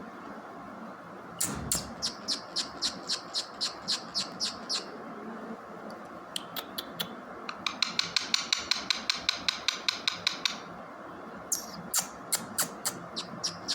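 Parrot making series of short, sharp chirps or clicks, about three a second at first, then a faster run of about six a second, then slower again near the end, over a steady background noise.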